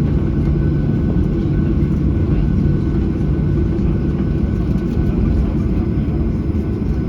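Steady engine and airflow rumble of a Boeing 737-800 heard inside the passenger cabin, from its CFM56-7B turbofans, with a faint steady whine above the rumble.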